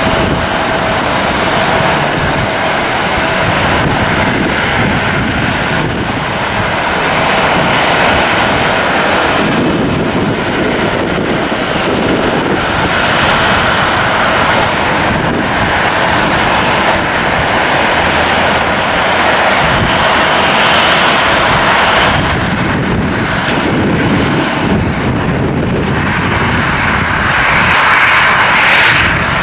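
Airliner engines running loud and steady, growing louder near the end.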